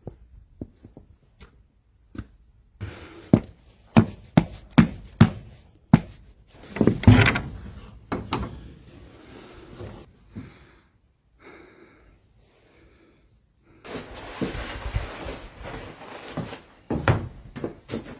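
A run of sharp knocks and thuds, about two a second, then a heavier thud with rustling. More scattered knocks follow, and a few louder ones near the end.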